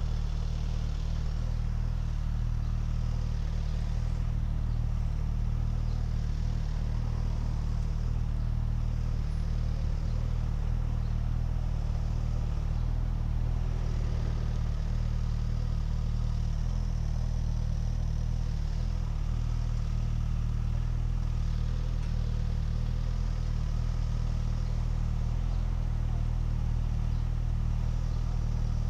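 A vehicle engine running at a steady speed on the move: a low, even drone with a light wash of road noise above it.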